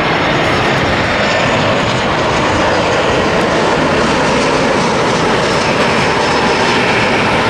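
Jet airliner on landing approach passing close by, its engines giving a loud, steady rushing noise that holds level throughout.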